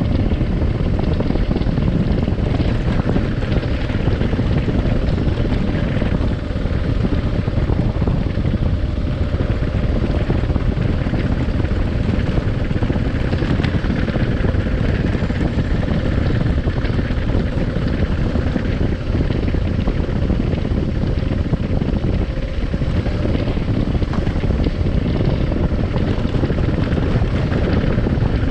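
Adventure motorcycle riding along with its engine running steadily, under heavy wind noise on the microphone.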